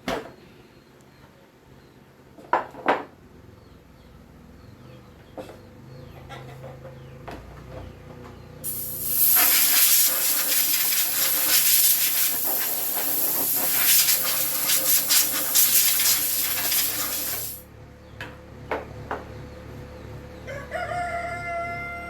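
A loud, steady spraying hiss lasting about nine seconds in the middle, after a few sharp clicks. Near the end a rooster crows.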